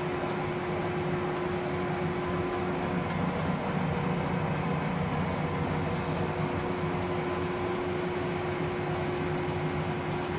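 LeBlond Regal engine lathe running under power: a steady mechanical hum from the geared headstock and drive, with a constant gear whine. It gets a little fuller and louder for a few seconds in the middle, then settles back.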